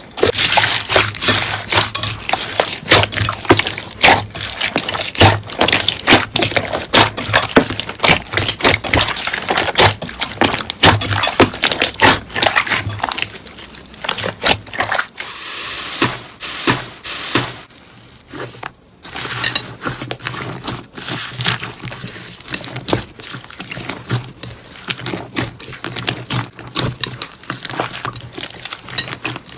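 Slime being squished and stretched by hand, giving a dense, irregular run of small clicks and pops, with a brief lull a little past halfway.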